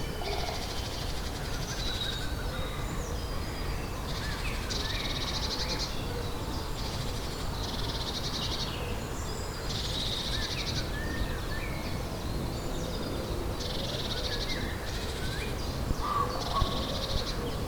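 Spring birdsong: one bird repeats a fast, rattling trill about a second long every few seconds, with other birds chirping and whistling around it, over a steady low rumble.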